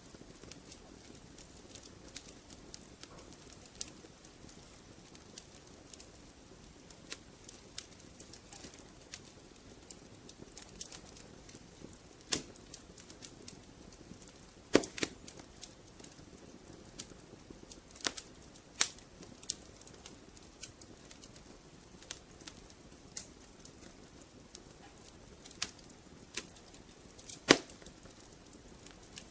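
Fireplace fire crackling: scattered sharp pops and snaps at an uneven pace over a soft hiss, with a few louder pops about halfway through and near the end.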